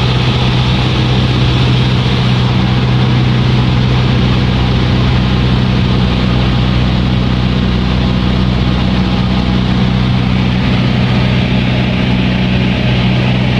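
Light propeller aircraft's engine running at a steady cruise, a loud, unbroken drone heard from inside the cabin.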